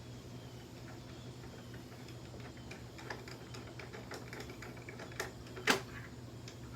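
Scattered light clicks and taps of hard objects being handled, with two sharper knocks a little past five seconds in, over a steady low hum.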